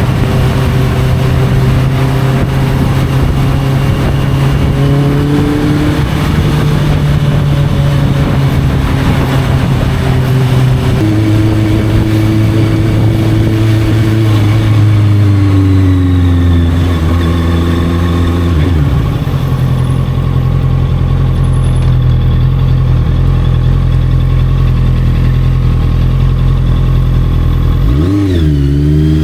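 Honda CB650F's inline-four engine through an Arrow aftermarket exhaust, running under way. The note holds steady, then changes pitch about a third of the way in. The revs sink away about two-thirds through, and near the end they dip and rise quickly.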